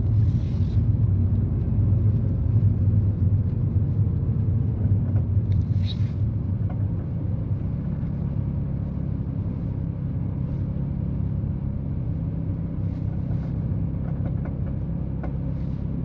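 Alpine A110's turbocharged four-cylinder engine and tyres giving a steady low rumble while driving at a constant pace, easing a little in loudness over the first half.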